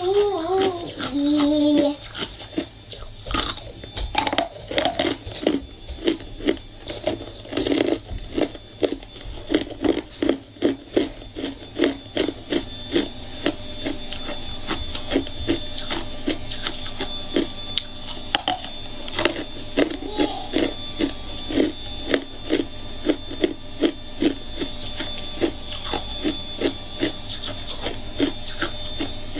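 A person biting and chewing hard ice close to the microphone: a dense run of sharp crunches and cracks, coming faster after the first few seconds.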